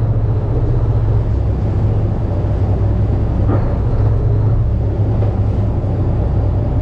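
Boat engine running steadily, a loud, even low drone with a hiss of wind and water above it.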